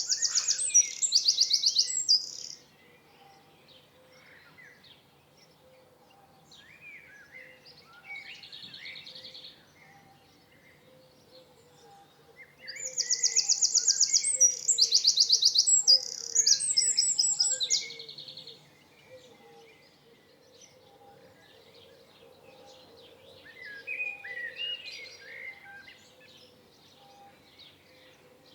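A songbird singing in loud phrases of fast, high trills, twice: once at the start and again from about thirteen seconds in. Softer chirps and shorter phrases from birds fill the gaps between.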